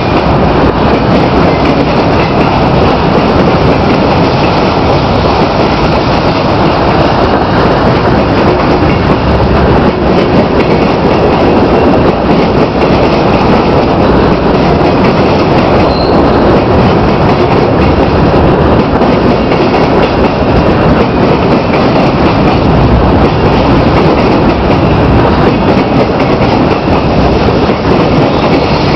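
Freight train cars rolling past close by: a loud, steady rumble and rattle of steel wheels on the rails.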